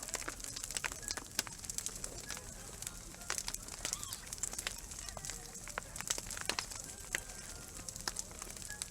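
Wood campfire burning, crackling with irregular sharp pops and snaps.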